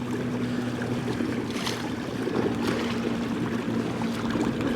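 Electric trolling motor of an Old Town AutoPilot 120 kayak running with a steady hum, its pitch dipping slightly a little over two seconds in, over water rushing and splashing along the hull.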